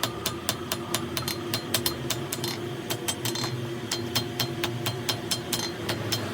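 A machine ticking rapidly and evenly, about six or seven clicks a second, over a steady hum.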